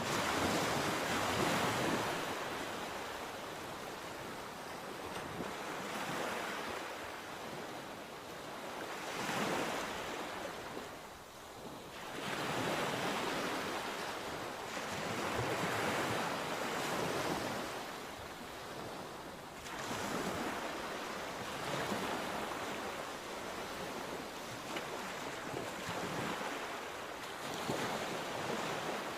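Sea waves breaking and washing on the shore, a steady hiss of surf that swells and ebbs every few seconds, with some wind on the microphone.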